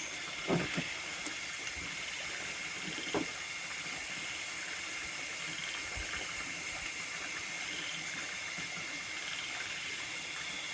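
Steady chorus of nocturnal rice-field insects: a continuous high-pitched trilling hiss. A few soft knocks come in the first few seconds.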